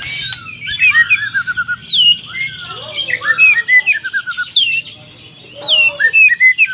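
White-rumped shama (murai batu) in loud, full song: a fast, varied run of whistled phrases, quick rising and falling slurs and short repeated notes, in bursts with a brief pause partway through.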